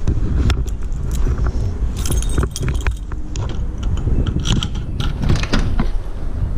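Keys jangling in bursts, over a steady low rumble of wind buffeting the microphone.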